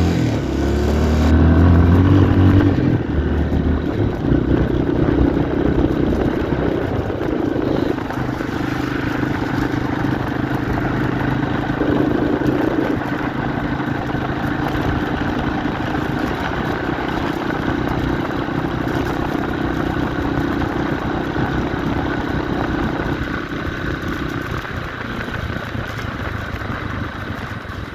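1990 Yamaha XT350's single-cylinder four-stroke engine pulling away with rising revs, loudest in the first few seconds, then running at a steady cruising pitch. It eases off a little near the end.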